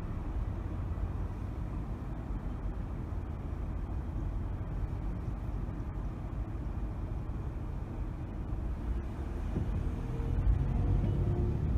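Steady low rumble of a car driving in city traffic, road and engine noise, growing a little louder near the end with a faint rising engine tone.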